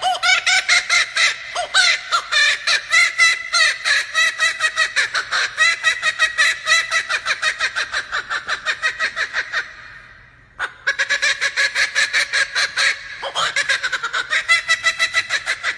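Male laughing kookaburra calling: a long run of rapid, loud cackling notes that breaks off for a moment about ten seconds in, then starts up again.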